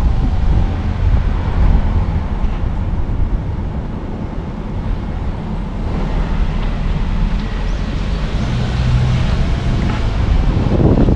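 A car driving along a road: a steady low rumble of road and engine noise with wind on the microphone, easing a little in the middle and building again near the end.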